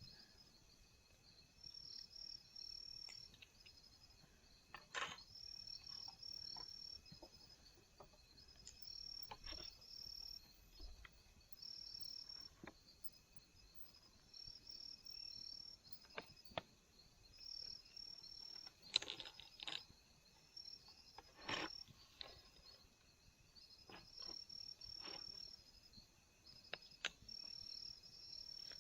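Faint high-pitched insect chirping in repeated trills about a second long, broken by scattered sharp clicks and knocks, the loudest about 19 and 21 seconds in.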